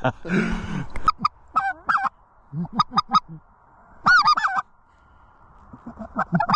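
Goose honking in short, loud bursts of several quick honks, with brief pauses between the bursts.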